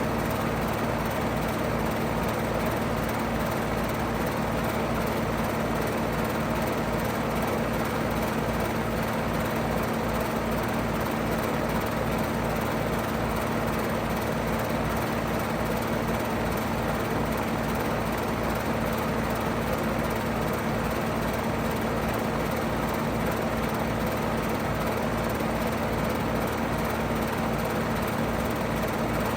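2009 five-ton Payne PH13 heat pump running steadily in heat mode: a steady low hum under an even rush of air, with no change in speed or pitch.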